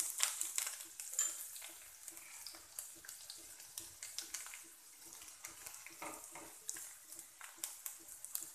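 Sliced garlic and grated ginger sizzling faintly in hot mustard oil as they roast on a low flame, stirred with a spatula. The spatula scrapes and taps against the kadhai in many short clicks.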